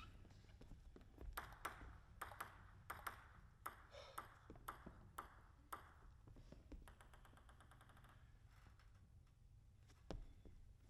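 Faint, sharp clicks of a plastic table tennis ball bouncing, roughly two a second for several seconds, then a short quick rattle as the bounces die away, after which it is near silence.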